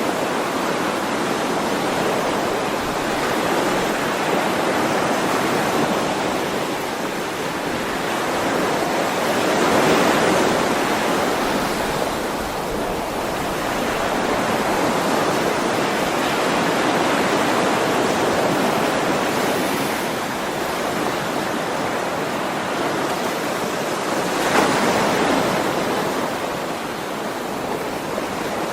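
Ocean waves breaking and washing on a shore in a continuous rushing hiss that swells and falls back every several seconds.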